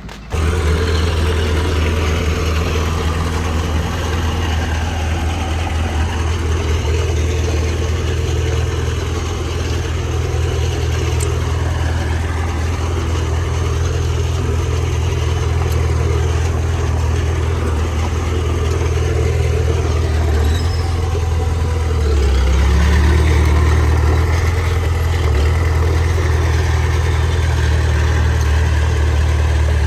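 Heavy diesel engine of earthmoving machinery running steadily, with a deep low drone. It gets louder for a few seconds about two-thirds of the way through.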